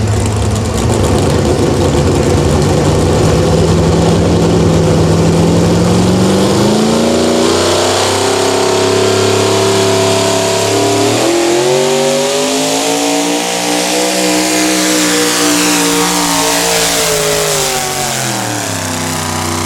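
Modified pulling truck's engine running hard under load: its pitch climbs over the first several seconds, drops sharply about eleven seconds in, climbs again, then falls away over the last few seconds.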